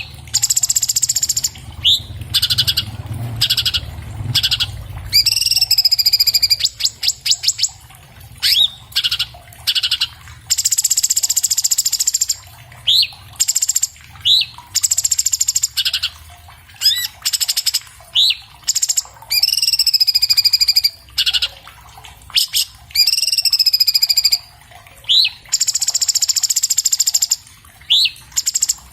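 Orange-bellied leafbird (cucak cungkok, Chloropsis hardwickii) singing a fast, varied song. It mixes short rising whistles, rapid buzzy rattling trills and looping down-slurred high notes, phrase after phrase with short gaps.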